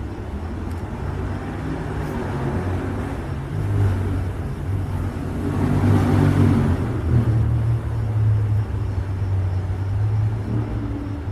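A train passing close by: a low engine drone that grows louder with running noise, loudest about six seconds in, then carries on more steadily.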